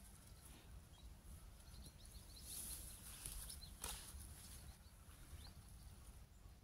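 Near silence: a faint low rumble with a few faint, short, high bird chirps, and one brief sharp rustle about four seconds in.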